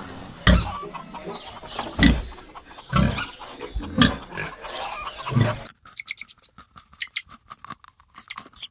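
Recorded farm animal calls. About five low, deep grunts come roughly a second apart, then about two-thirds of the way in the sound cuts suddenly to quick, high-pitched chirps and clucks.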